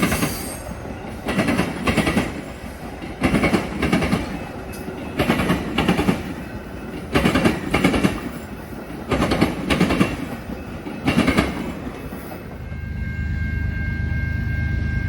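Railcars rolling past, their wheels clacking over a rail joint in pairs about every two seconds. Near the end the clacking stops and a steady low rumble with a high whine takes over.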